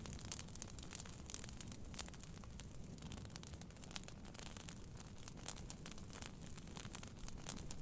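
Wood fire crackling, with frequent small, irregular pops and snaps over a steady low rumble of heavy rain on a tent.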